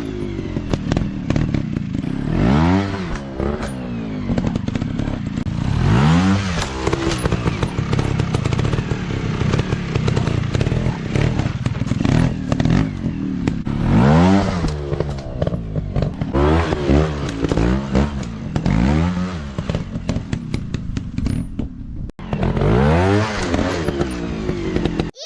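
150 cc dirt bike engine revving hard in repeated throttle bursts, the pitch climbing and dropping back every few seconds, with rattling and clatter mixed in.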